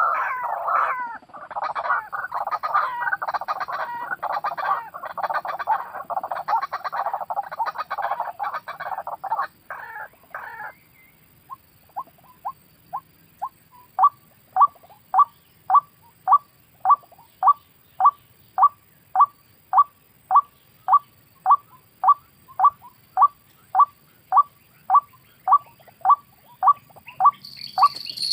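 White-breasted waterhen calling: a loud jumble of croaking calls for about ten seconds, then after a short pause a long, steady series of single 'kook' notes at about one and a half a second. A high steady buzz comes in near the end.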